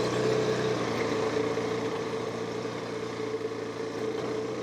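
KTM 390 Adventure's single-cylinder engine running steadily as the motorcycle climbs a steep dirt road, its level easing off slowly.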